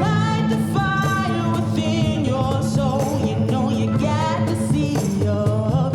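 Live string-band music: a melody played with vibrato over guitar, mandolin and percussion, blending classical and bluegrass styles.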